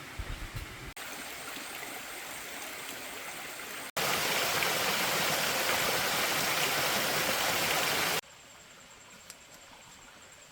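Steady rushing water, loud and even for about four seconds in the middle, starting and stopping abruptly at edit cuts, between quieter stretches of background noise.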